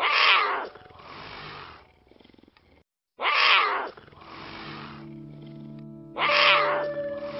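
A big cat growling three times, about three seconds apart, each loud rough growl followed by a softer rasping breath. A steady musical drone sits underneath.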